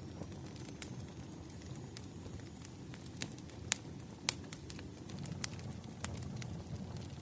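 Burning firewood crackling, with irregular sharp pops and snaps over a low, steady rumble of the fire; two pops a little after halfway are the loudest.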